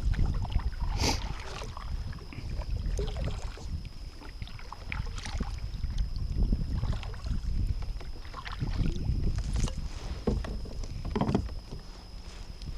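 Kayak on the water: a steady low rumble of hull and water movement, with scattered short knocks and clicks. A faint steady high tone runs underneath.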